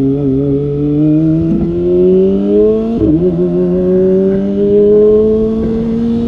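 Kawasaki ZX-25R's 250 cc inline-four engine pulling in gear, its pitch rising steadily, dropping briefly at a gear change about three seconds in, then rising again.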